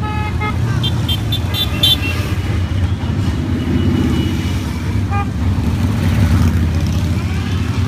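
A procession of motorcycles rumbling steadily past, with horns beeping: one at the start, several quick toots between one and two seconds in, and another about five seconds in.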